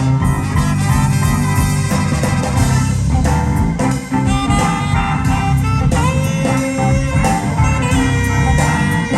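Live band playing an instrumental passage of a slow blues song, with electric guitar over bass and drum kit.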